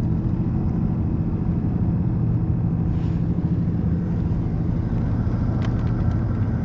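Boat engine running steadily, a low even hum, with a couple of faint clicks over it.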